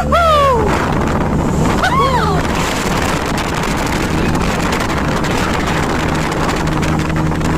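Motorboat engine running steadily at speed, with wind buffeting the microphone and water rushing past the hull. A high-pitched voice calls out briefly at the start and again about two seconds in.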